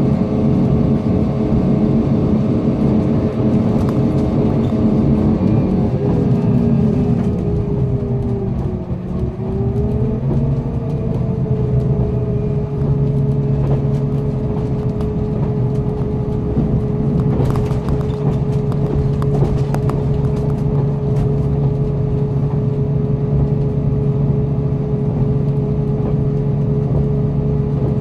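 Inside a diesel express train running on the rails: steady engine and transmission hum over wheel rumble. The hum drops in pitch about a quarter of the way in, then holds steady at the lower pitch, and a short run of clicks comes about two-thirds of the way in.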